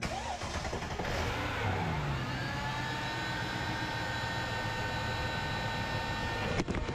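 A Mercedes R500's V8 engine starts and runs, its revs dropping to a steady idle about two seconds in, with a steady whine over the idle. The sound cuts off abruptly near the end.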